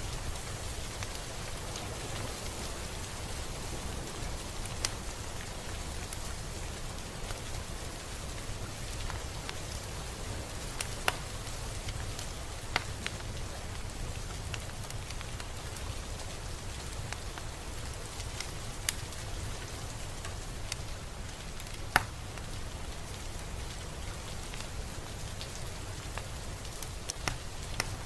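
Steady rain falling, an even hiss with scattered sharper single drop hits and a low rumble underneath.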